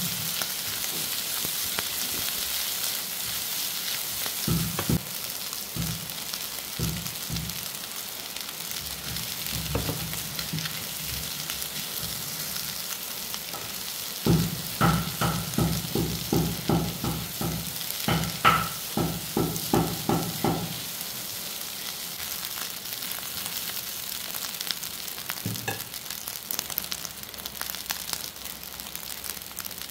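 Egg fried rice with diced vegetables sizzling steadily in a hot frying pan while being stirred with a silicone spatula. In the middle comes a run of regular knocks, two or three a second for about seven seconds, as the spatula strikes the pan while stirring.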